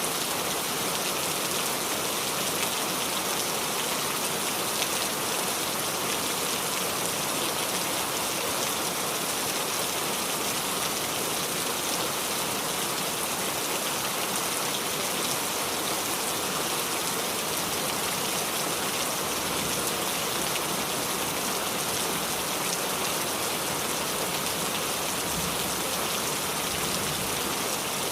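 Steady rain falling and dripping on the leaves of a small tree: a dense, even patter of drops that holds level throughout.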